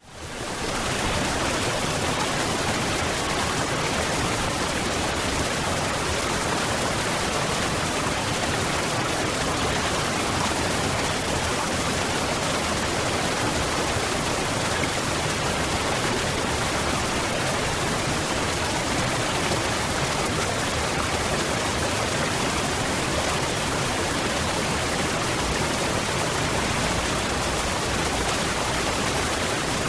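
Waterfall: a steady rush of falling water, rising out of silence in the first second and then holding even.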